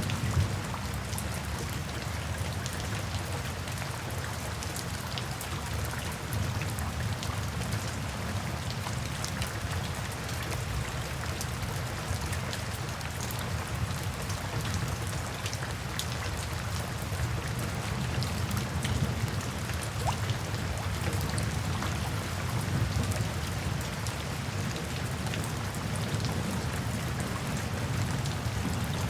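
Steady rain falling, with many separate drops ticking and a low rumble underneath.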